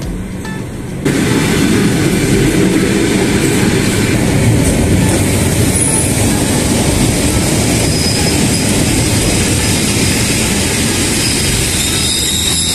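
Suburban electric train running on the rails: a steady, loud rolling rumble that begins abruptly about a second in, with a few faint high wheel squeals.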